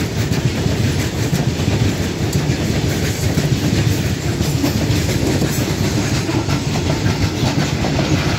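Indian Railways freight train of covered goods wagons rolling past close by, a loud steady rumble of wheels on rail with repeated clicking over the rail joints.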